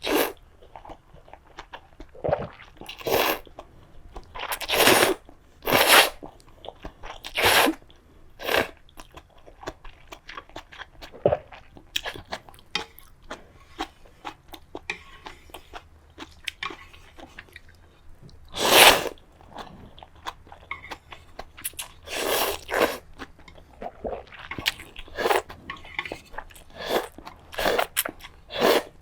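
Close-miked eating sounds: a person crunching and chewing food in a run of short, irregular bursts, with one longer, louder burst about two-thirds of the way through.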